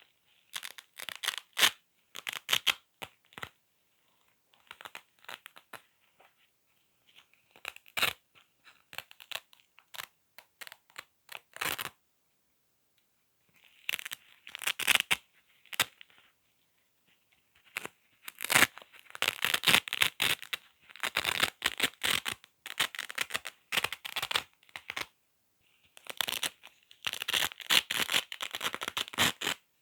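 Velcro hook-and-loop strips being ripped apart and crunched again and again, a crackling rasp in short bursts with brief pauses between, coming thicker and more continuous in the second half.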